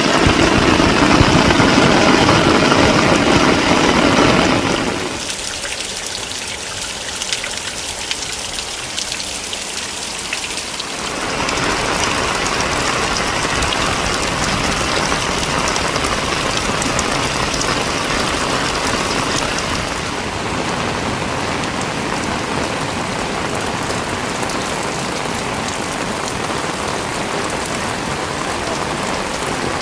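Steady rain falling, an even hiss that drops in level about five seconds in and picks up again about eleven seconds in.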